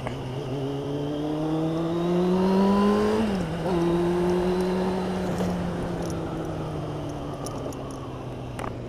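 Motorcycle engine accelerating, its note rising for about three seconds, dropping sharply at an upshift, then running on steadily and slowly easing, with wind noise behind it.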